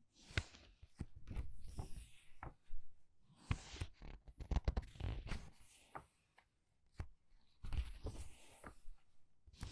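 Pages of a book being turned quickly by hand: repeated paper swishes and flaps with light taps, one turn after another, with a brief pause about six seconds in.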